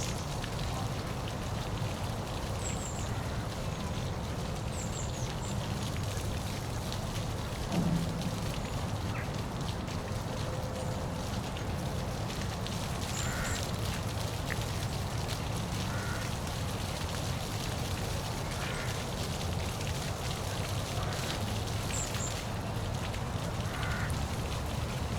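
Steady rush of falling water from a park waterfall, with a few faint high chirps now and then and a brief low thump about eight seconds in.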